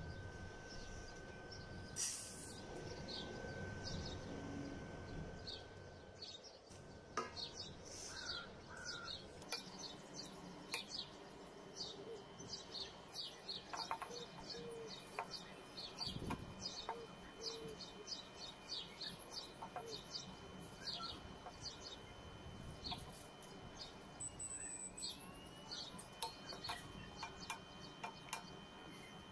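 Small birds chirping repeatedly in the background, with a steady high-pitched whine that starts about a third of the way in and dips briefly near the end.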